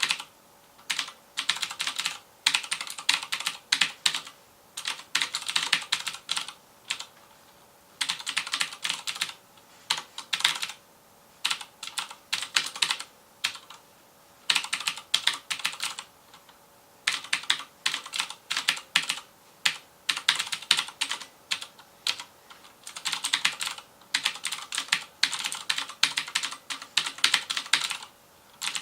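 FILCO Majestouch Convertible 2 mechanical keyboard with clicky Cherry MX Blue switches being typed on fast, in runs of rapid keystrokes broken by short pauses of about half a second to a second.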